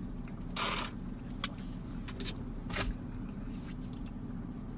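Steady low hum of a car idling, heard from inside the cabin. A few brief rustles and clicks sit over the hum.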